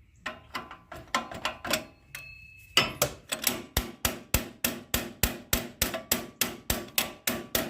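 Metal-on-metal hammering, a few light knocks at first and then steady sharp blows about three a second, driving a stuck centrifugal clutch off a small engine's crankshaft with a pry bar.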